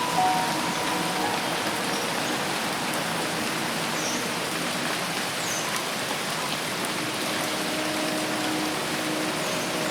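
Dense, steady rain falling on forest foliage.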